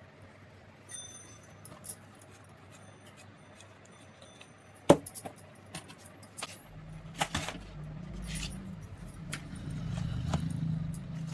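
Small metal parts clinking and clicking as they are handled, with one sharp knock about five seconds in; from about seven seconds a steady low hum joins in.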